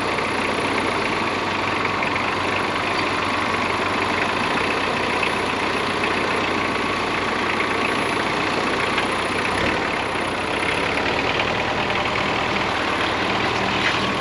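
Wood-Mizer LT40 portable bandsaw mill running steadily, its engine and band blade making an even machine drone.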